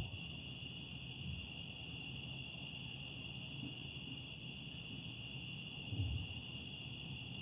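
Steady, high-pitched insect chorus, with a soft low rumble about six seconds in.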